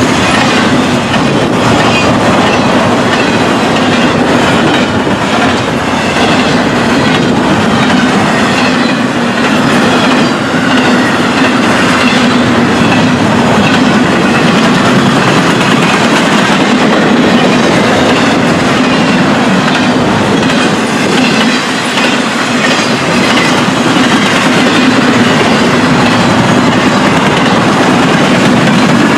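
Railroad cars of a passing train rolling by close at hand: a loud, steady rumble of wheels on rail with a continuous clickety-clack over the rail joints.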